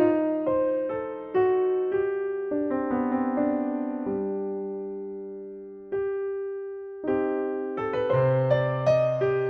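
Background music: a slow solo piano or electric piano playing struck notes and chords that ring and fade, with one long held chord in the middle.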